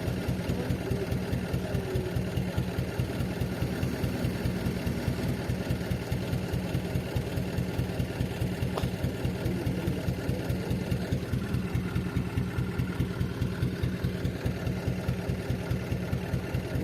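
Truck engine idling steadily, with an even, rapid pulse and no revving.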